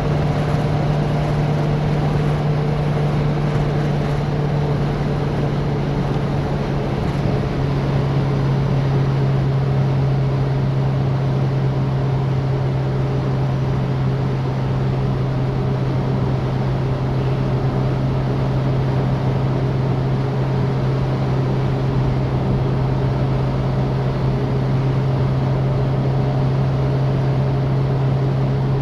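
A Citroen DS's four-cylinder engine holding a steady hum while driving, over road and wind noise; the engine note drops slightly about a quarter of the way in.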